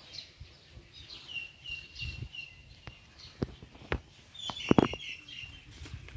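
Birds chirping in runs of short, quickly repeated notes. A few sharp knocks come through, the loudest a close cluster a little under five seconds in.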